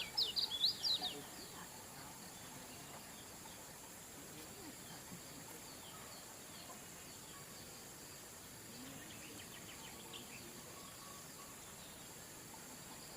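Kecial kuning, a small white-eye songbird, singing a rapid run of high, sharp chirps that stops about a second in. After that a faint steady high insect-like drone runs on, with a few faint chirps about two-thirds of the way through.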